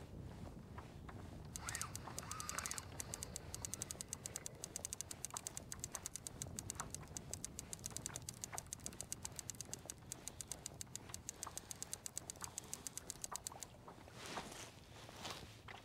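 Trolling reel being cranked to bring in a hooked trout. Its mechanism gives a rapid, even ticking that stops shortly before the end, followed by a couple of brief splashy rustles.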